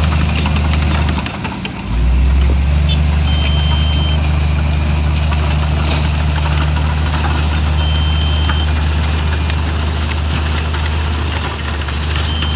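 Heavy diesel engine of earthmoving machinery running steadily under load. Its note drops briefly about a second in, then picks up again. A short high beep sounds three times, several seconds apart.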